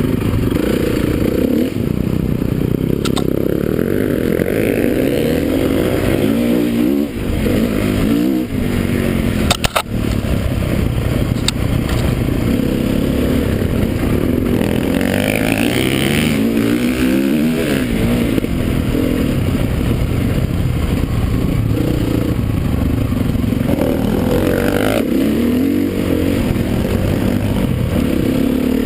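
Motocross bike engines revving up and down continuously, their pitch rising and falling as the bikes pass, with a few sharp clicks, one about ten seconds in.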